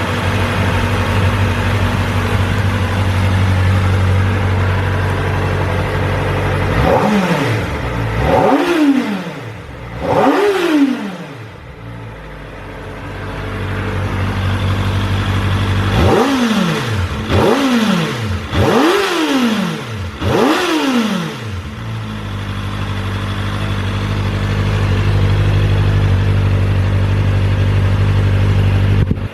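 Kawasaki ZX-4RR's 399 cc inline-four engine idling through its stock muffler, blipped sharply three times about a third of the way in and four times just past halfway, the revs climbing fast and falling straight back to idle after each blip.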